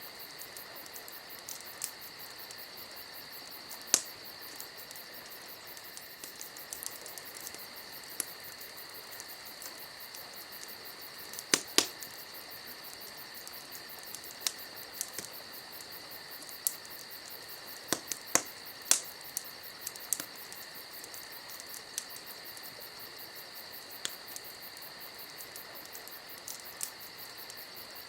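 Wood fire crackling, with sharp irregular pops, a pair of the loudest coming close together about halfway through, over a steady shrill chorus of crickets.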